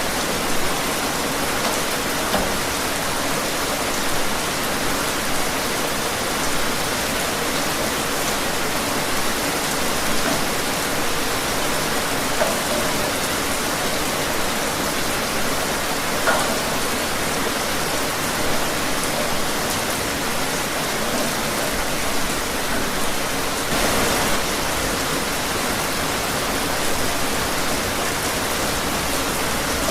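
Steady rain falling outdoors, a continuous patter with scattered individual drop hits.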